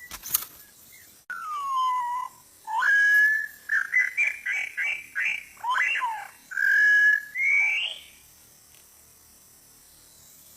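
White-rumped shama (murai batu) song: a phrase of clear whistles that opens with a falling glide, moves through held notes and a fast run of about eight short notes, and ends on rising notes. A single sharp click comes just before the song starts.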